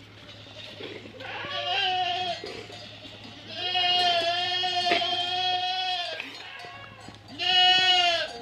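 Goat bleating: three calls, the middle one long at nearly three seconds, the last one shortest and loudest.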